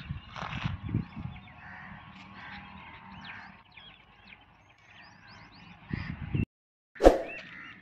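Birds outdoors: crows cawing and small birds chirping, with a few low knocks in the first second. The sound cuts out completely for about half a second near the end, then a sharp knock comes.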